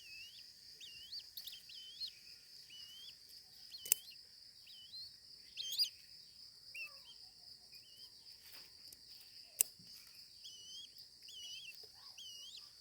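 Small birds chirping repeatedly, short curved chirps every second or so, over a steady high insect drone, with two sharp clicks about four and ten seconds in.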